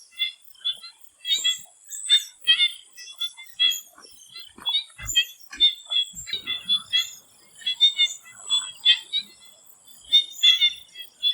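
A chorus of swamp frogs calling: short, repeated calls, often in quick clusters of several notes, overlapping irregularly. A steady high-pitched whine runs behind them.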